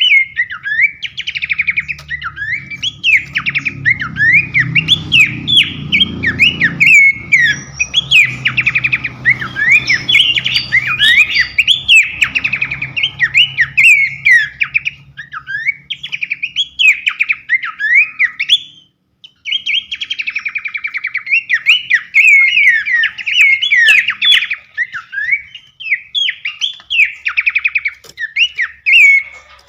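A songbird singing a fast, unbroken run of chirps, whistled sweeps and trills, breaking off briefly about nineteen seconds in. A low hum sits under the song for much of the first half.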